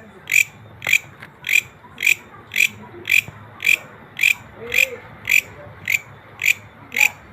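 Green grasshopper stridulating: short, high chirps repeated at a steady beat, a little under two a second.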